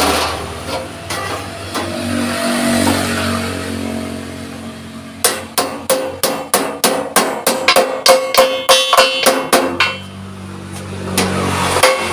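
Hammer blows on thick steel sheet, a sharp metallic strike with a ring, about three a second, starting about five seconds in and stopping about ten seconds in. A steady hum comes before and after the hammering.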